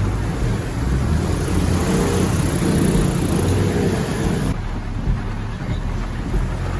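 A motor vehicle's engine running with wind rushing over the microphone; its pitch wavers up and down about two seconds in, and the high rushing hiss drops away about four and a half seconds in.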